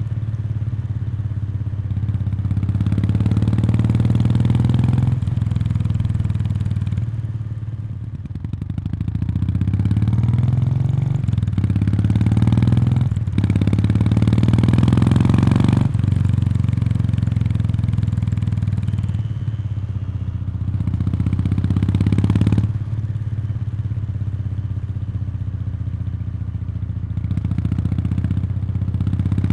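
Kawasaki Meguro K3's 773 cc air-cooled parallel-twin running through its stock muffler, picked up close to the muffler outlet. The engine note rises in pitch under throttle several times, each rise cut off sharply, with steadier running between.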